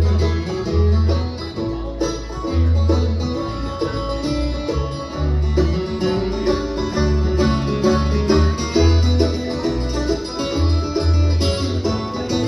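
A bluegrass band of mandolin, guitar, banjo and bass playing an instrumental break between sung verses, with the bass keeping a steady beat under the picked lead.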